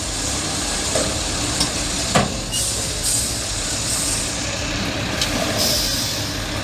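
Heavy vehicle's diesel engine running steadily, with a sharp knock about two seconds in and a few fainter clicks.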